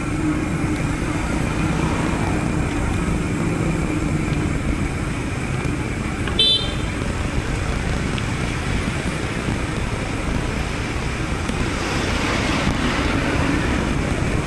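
Road traffic noise with a motor vehicle running close by, and a short horn toot about six and a half seconds in.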